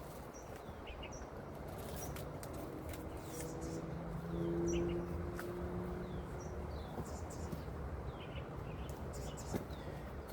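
Small birds chirping outdoors, short high downward chirps repeating every second or so. A low steady hum swells in for about three seconds in the middle.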